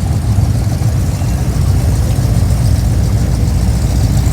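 Car engine idling, a steady low rumble with no revving.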